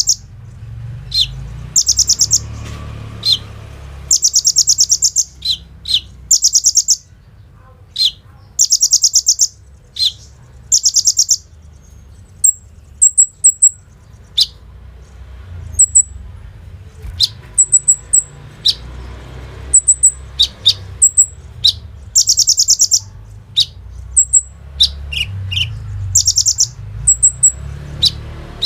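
Kolibri ninja sunbird singing in a loud, high-pitched burst of rapid rattling trills, each lasting about half a second to a second. These alternate with short, thin, very high chips and a few sharp lower notes. A faint low hum runs underneath.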